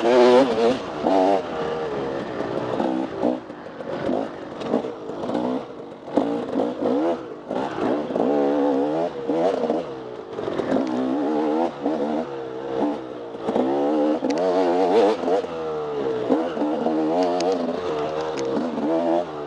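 Off-road dirt bike engine being ridden hard, its pitch constantly rising and falling as the throttle opens and closes, with scattered knocks and rattles from the bike.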